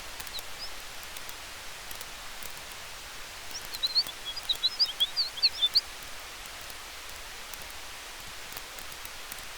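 Campfire burning with a steady hiss and faint scattered crackles, with wind in the trees. About three and a half seconds in, a quick burst of high chirps sounds for about two seconds, the loudest thing heard.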